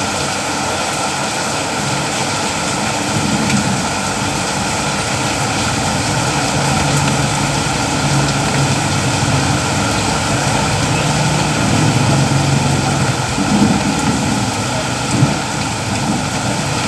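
Steady heavy rain falling. A low hum swells through the middle and fades, with two brief louder knocks near the end.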